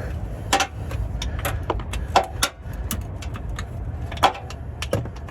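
Scattered sharp metallic clicks and clanks, loudest about half a second, two seconds and four seconds in, over a steady low rumble.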